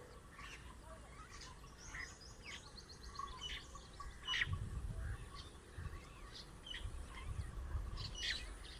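A flock of birds chirping in a date palm: many short, overlapping calls, with a quick run of high notes in the first couple of seconds. Low rumbles come in from about halfway.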